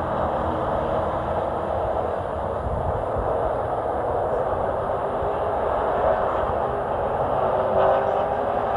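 Race truck running at speed on a paved oval, heard from inside the cab: a steady engine and road noise that swells slightly near the end.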